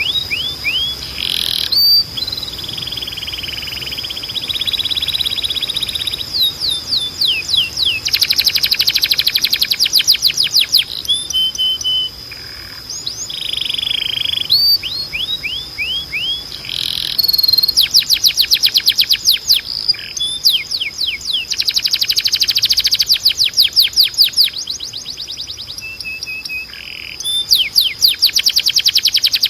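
Timbrado canary singing a long training song: fast runs of evenly repeated descending chirps alternate with buzzy rolling phrases and brief short notes, with a steady high tone held underneath.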